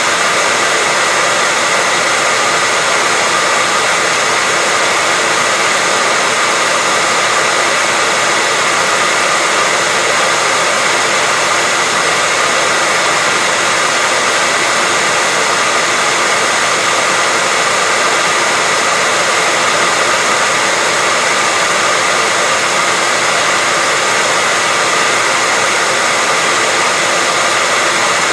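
Electric hairdryer running steadily: an even rush of blown air with a high motor whine.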